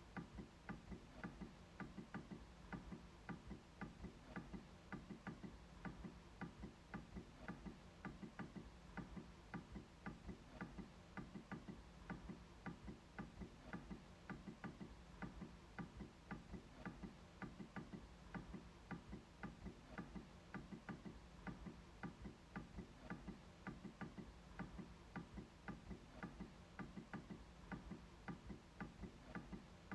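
MacBook trackpad being clicked over and over, faint short clicks at a steady, quick pace.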